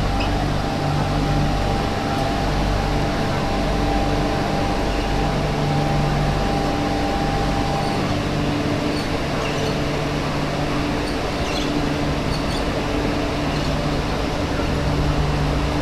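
MTR Q-train (Hyundai Rotem electric multiple unit) running at a steady speed between stations: an even rumble with a constant low hum and steady tones, one higher tone dropping out about halfway through.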